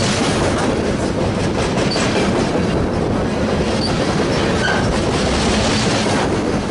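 A freight train's cars rolling slowly past, a steady loud noise of wheels on rail with faint knocks from the joints.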